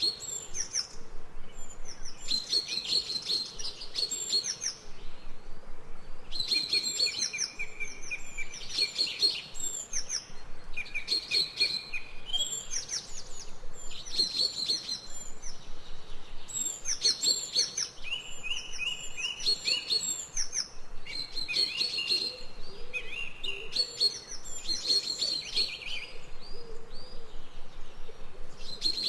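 Several songbirds singing and calling in forest ambience: quick repeated chirps and short trilled phrases, one after another, over a faint steady background.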